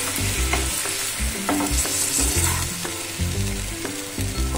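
Spatula stirring okra in a yogurt sauce in a hot pan, with a continuous frying sizzle and a few short scrapes against the pan.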